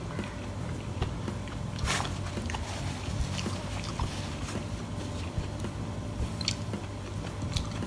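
A person chewing a mouthful of eggplant omelette close to the microphone, with small wet mouth clicks and smacks, one stronger click about two seconds in, over a low steady hum.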